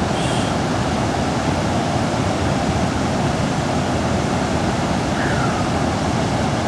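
Loud, steady rush of whitewater pouring over the Great Falls of the Potomac in high, turbulent water.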